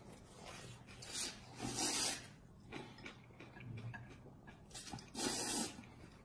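A person eating noodles, with noisy slurps and chewing; the loudest slurps come about two seconds in and again near the end.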